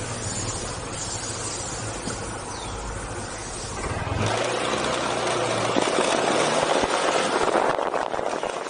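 Yamaha NMax scooter's single-cylinder engine running steady at idle, freshly restarted after a broken wire behind its check-engine error code 61 was repaired. About four seconds in, a louder rushing noise takes over.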